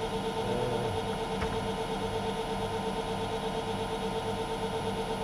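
Myford metal lathe running steadily, giving an even mechanical hum.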